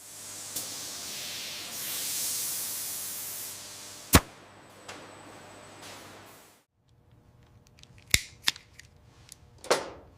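A steady hiss that cuts off suddenly after about six and a half seconds, with one sharp click partway through. Near the end come three short clicks.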